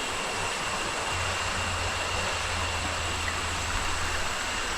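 Steady rainforest ambience: an even rushing hiss with thin, steady high-pitched tones over it, and a low hum coming in about a second in.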